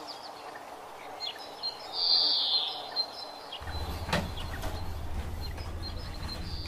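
Birds chirping in short bright bursts around a village yard, the loudest about two seconds in. A little past halfway a low steady rumble comes in, with a single sharp tick soon after.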